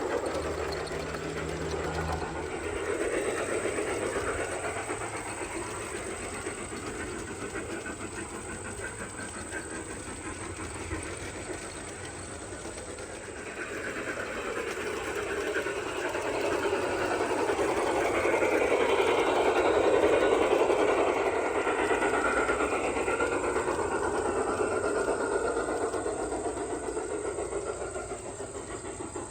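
Garden-scale model train running on its track, a steady rumble of wheels and motor that grows louder past the middle as it comes near, then eases off again.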